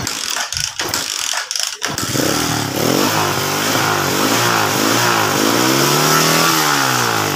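Motorcycle engine being cranked with the choke on, catching about two seconds in and then revved up and down a few times. It will run only on choke, which the mechanic reads as fuel starvation or an air leak at the intake.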